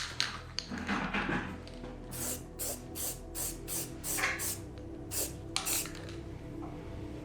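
Aerosol can of filler primer spraying in a series of short hissing bursts, about three a second, as a coat goes onto a repaired motorcycle plastic panel.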